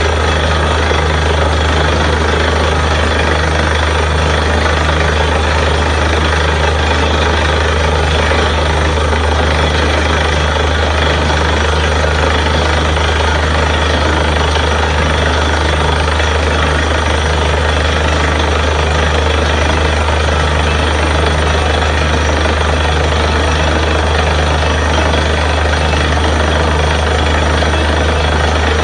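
Borewell drilling rig running steadily and loudly, with a deep drone and a faint regular pulse under it.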